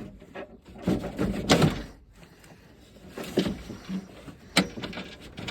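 Scattered clicks, knocks and scrapes of parts being worked loose by hand inside a truck door while the door latch and handle are taken out. The sharpest click comes near the end.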